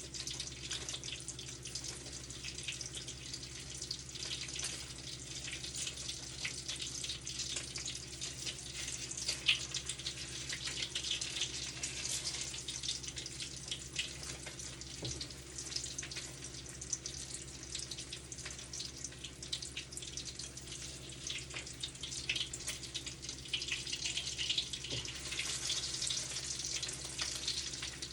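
Eggs and chicken breast frying in oil in a pan: steady sizzling with dense crackling and small spatters of oil.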